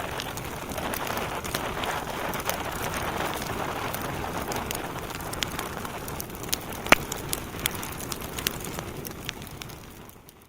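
Logs burning in a fireplace: a steady hiss with frequent crackles and small pops, and one loud pop about seven seconds in. The sound fades down near the end.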